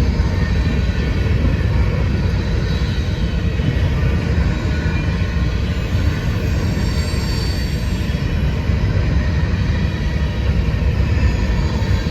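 A freight train rolling past, a steady low rumble of railcars on the rails with no let-up.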